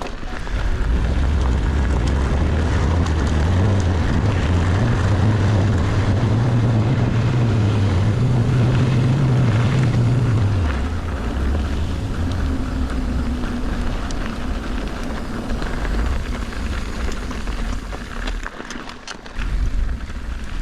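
Wind buffeting an action camera's microphone during a mountain bike ride, mixed with the rumble of the bike on the trail. The low rumble is heaviest for the first ten seconds or so, then eases.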